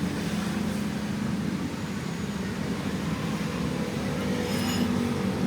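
An engine or motor running steadily with an even low hum.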